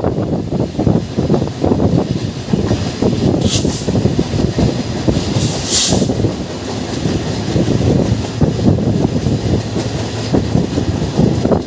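A moving passenger train, heard from aboard: the wheels rumble and clatter irregularly over the track. Two short high hissing sounds come about three and a half and six seconds in.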